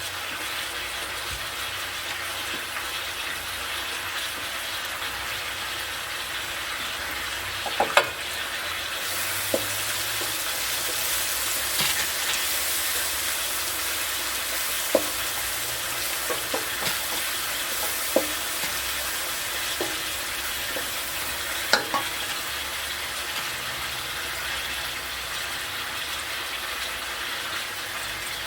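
Mussels and calamari strips sizzling steadily in a frying pan, the sizzle growing brighter about nine seconds in. A few sharp knocks of a utensil against the pan as the seafood is stirred.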